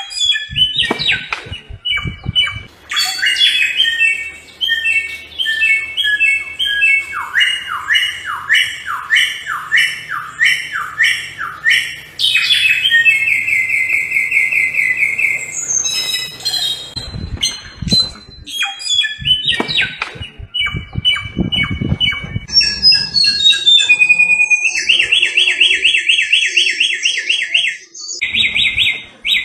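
Samyong songbird singing a loud, varied song: series of repeated whistled notes, a run of falling notes, and several fast trills.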